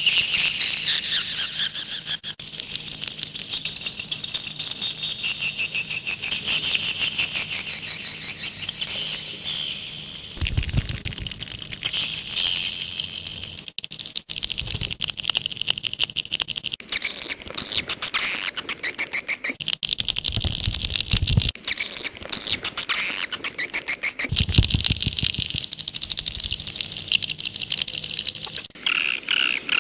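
Swiftlet calls: a dense, continuous twittering of rapid chirps and clicks, high-pitched, in the style of a 'jaguar' swiftlet lure-call track used to draw swiftlets into a nest house. Short low rumbles come in around a third, two thirds and four fifths of the way through.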